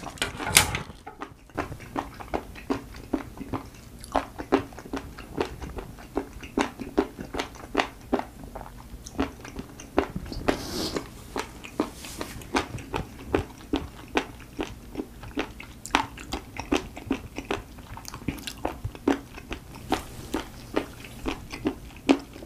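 Close-miked chewing of raw spoon worm (gaebul): a steady run of short, sharp mouth clicks, about two a second.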